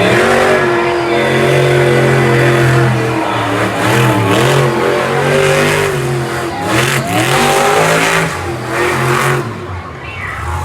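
Monster truck engine revving hard, its pitch climbing and dropping several times, with a dip in level near the end.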